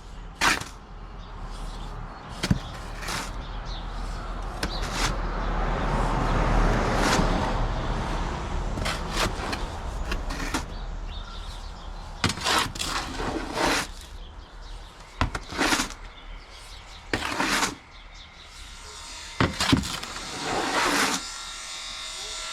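Shovel scraping and turning a dry sand-and-cement mix in a metal bath, in a series of scrapes and knocks with a longer sliding scrape a few seconds in.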